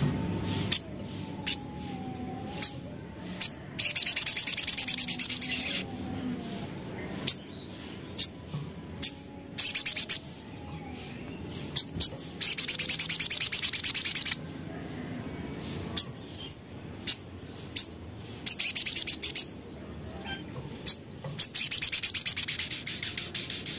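Crimson sunbird (sogok ontong) calling in breeding condition: single sharp chips between five bursts of a rapid, high rattling trill, each burst lasting one to two seconds.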